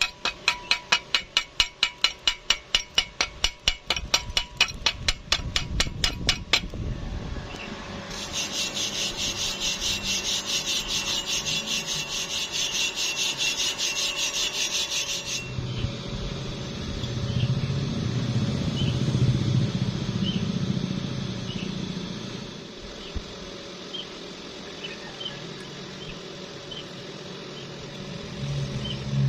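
A wire brush scraping over steel plate in even strokes, about three a second, for the first six seconds, as when cleaning a weld. It is followed by a steady high hiss lasting several seconds, and then a low hum with faint ticks.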